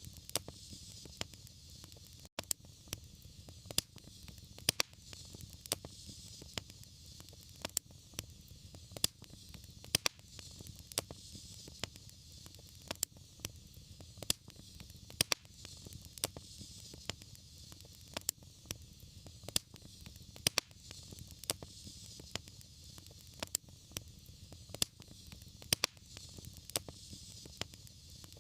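Fireplace fire crackling: sharp pops a few times a second over a low, steady rumble.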